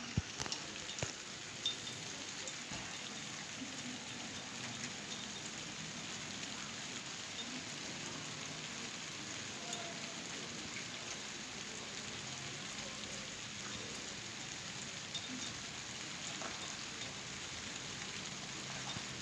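Light rain falling steadily: an even hiss of rain with scattered drop ticks, and a few sharper clicks in the first two seconds.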